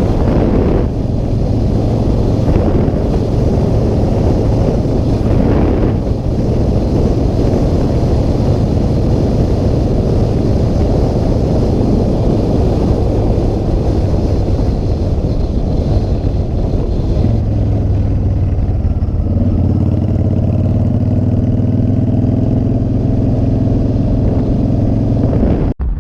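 Motorcycle engine running on the move with wind rushing over the microphone. About three-quarters of the way through, the engine settles into a steadier, deeper note.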